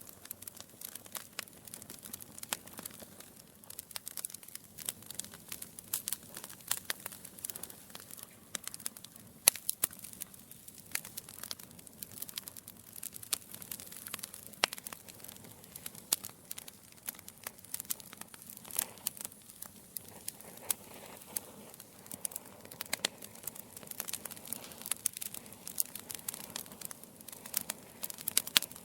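Logs burning in a fireplace, crackling with frequent sharp, irregular pops over a soft, steady hiss of flame.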